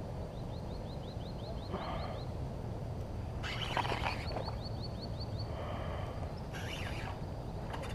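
Birds calling: two quick runs of short rising chirps, about five a second, with a few louder, harsher calls in between, over a steady low rumble of wind and flowing river water.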